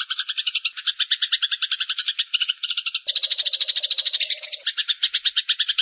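Eurasian tree sparrows (burung gereja) chirping in a fast, unbroken run of about ten short chirps a second, the excited calling of sparrows fighting. About three seconds in, the chirping grows louder and a low steady note sounds beneath it for a second or so.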